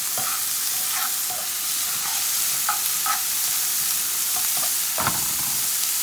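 Chopped bell peppers and onions sizzling as they sauté in hot oil in a pan, with short scrapes and clicks of a utensil stirring them against the pan and a louder knock about five seconds in.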